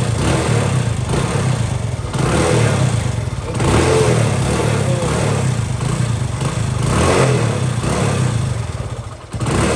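Hero Honda Passion Plus's single-cylinder four-stroke engine running on the freshly restored bike, its throttle opened and eased several times so the revs rise and fall, with a short dip just before the end.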